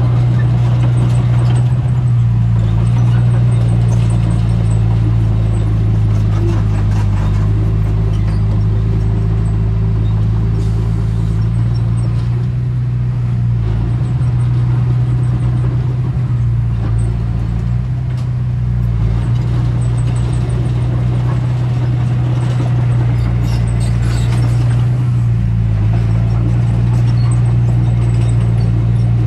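Heavy diesel engine of construction machinery running steadily at a constant speed, a deep even drone.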